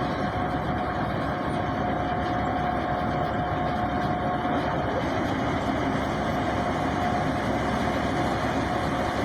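Combine harvester running steadily: a constant engine and machinery din with a steady whine held throughout.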